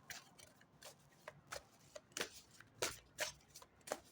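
Tarot cards being handled, faint: a string of short, irregular snaps and slaps, about a dozen in four seconds.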